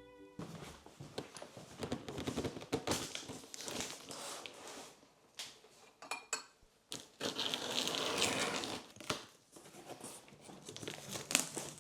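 Close-up crinkling and rustling of something being handled, with many small clicks and taps, pausing briefly about halfway through.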